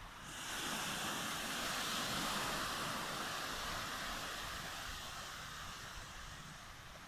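Ocean surf: the wash of a wave rises sharply about half a second in, then slowly fades away.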